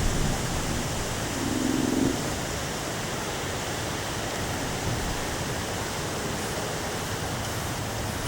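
Steady hiss of heavy rain and strong wind in a storm. A short low pitched hum sounds briefly about a second and a half in.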